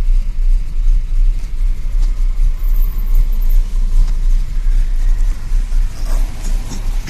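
Tofaş Doğan SLX's four-cylinder engine, fitted with a 296-degree Estaş camshaft, idling with a loud, uneven low rumble.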